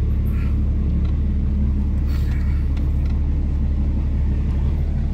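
A steady low rumble, with a few faint clicks about two seconds in.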